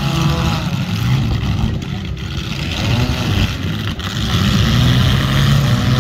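Engines of several compact demolition-derby cars running and revving together, their pitches rising and falling over one another as the cars push and ram.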